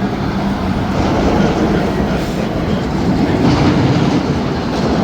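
Roller coaster train running along its track: a loud, steady rumble of wheels on rail.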